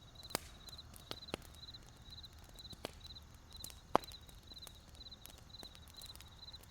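Wood campfire crackling, with sharp pops at uneven intervals and the loudest about four seconds in, over a cricket chirping steadily about two and a half times a second.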